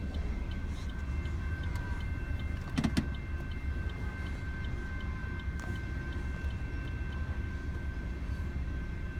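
Loaded coal train rolling past a level crossing, its wheels on the rails making a steady low rumble, with a brief clank about three seconds in. Over it, the crossing's warning bell rings steadily, a few strikes a second.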